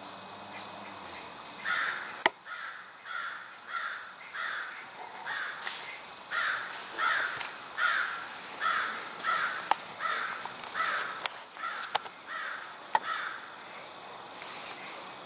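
A bird giving a long, evenly paced series of harsh calls, about two a second, with a few sharp clicks among them.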